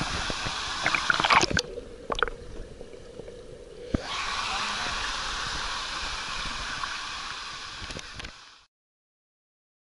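Rushing water of a waterfall or stream, a steady hiss of water noise, with a few sharp clicks and knocks in the first two seconds; the sound cuts off suddenly near the end.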